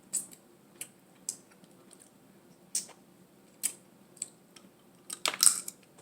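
Close-miked eating sounds: scattered sharp clicks of crab shell being handled and picked, with a louder cluster of cracks about five seconds in.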